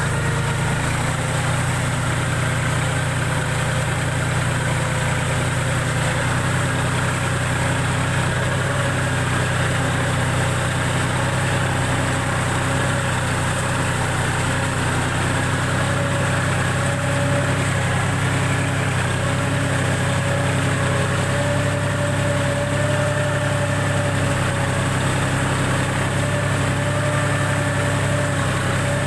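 John Deere tractor's diesel engine running steadily, with a slight rise in pitch about halfway through.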